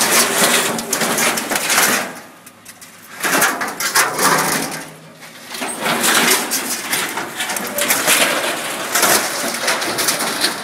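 A load of mixed scrap metal sliding out of a raised dump truck bed, crashing and scraping in three loud surges with short lulls between them.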